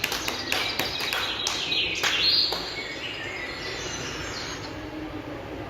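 Scattered hand clapping, then a recorded bird call: a whistle falling in pitch about two seconds in, followed by fainter chirps over a steady hiss.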